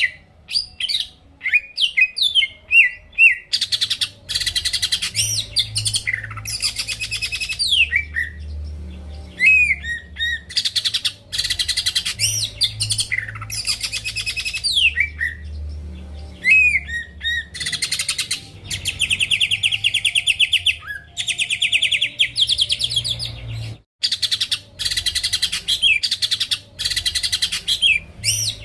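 Cucak ijo (greater green leafbird) singing in full song: long rapid trills alternate with whistled notes that slide up and down, with short breaks between phrases.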